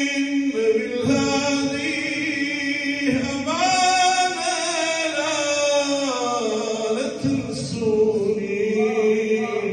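Unaccompanied male voices chanting an Arabic devotional lament in long, drawn-out melismatic notes, layered so they sound like a choir. The pitch climbs about three seconds in and sinks back down around six seconds.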